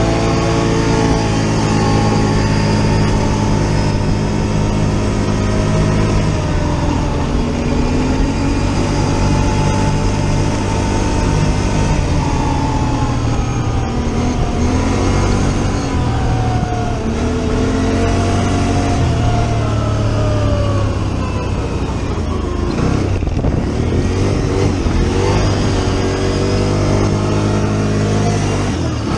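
Four-wheeler (ATV) engine running under changing throttle: it holds a steady note for several seconds, then its pitch repeatedly rises and falls as the machine speeds up and slows.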